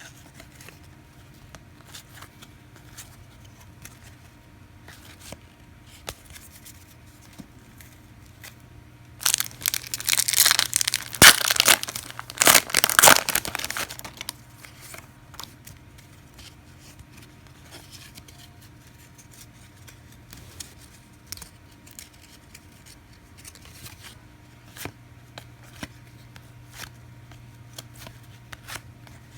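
A 1999 SkyBox Thunder trading-card pack wrapper being torn open, a loud crinkling rip lasting about five seconds, starting about nine seconds in. The rest holds light clicks and taps of cards being handled.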